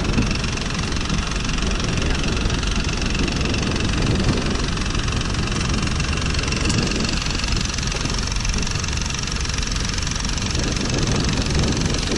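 Boat engine running steadily, with a constant rushing hiss over its low rumble.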